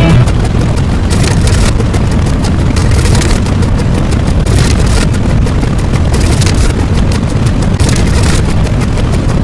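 Loud, steady rumbling noise with no clear pitch, heaviest in the low end, that cuts off abruptly at the end.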